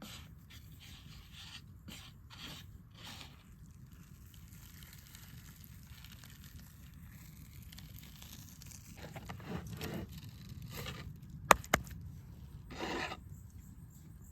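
Handling noises of rubbing and scraping strokes, with two sharp clicks close together about two-thirds of the way through, followed by a louder scrape.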